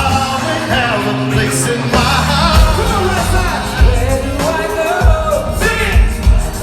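Live concert music: a sung vocal melody over a band with a heavy, regular bass beat.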